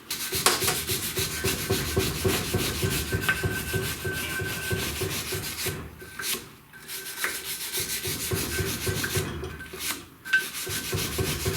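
A brush scrubbing a part in rapid back-and-forth strokes, pausing briefly about six and ten seconds in.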